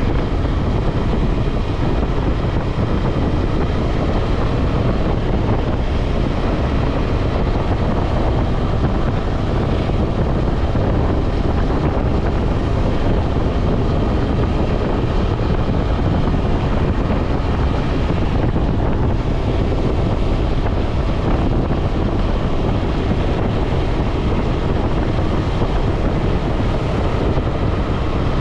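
Heavy wind noise on the microphone over a KTM 250 Adventure's single-cylinder engine running at a steady highway cruise.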